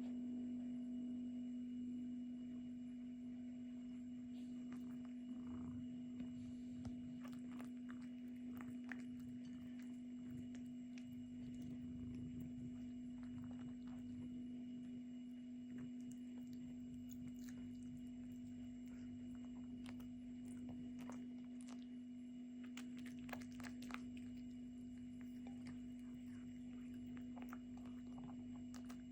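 A cat chewing and biting chicken: scattered faint clicks and crunches, busiest in the middle and again near the end. Underneath runs a steady low hum, the loudest sound throughout.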